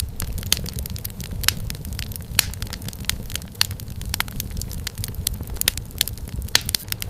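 Wood fire in a fireplace crackling, with frequent sharp pops and snaps over a low steady rumble of the flames.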